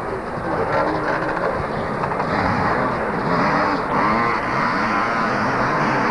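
Motocross bikes' two-stroke engines revving, several at once, their pitch rising and falling as they accelerate and shift.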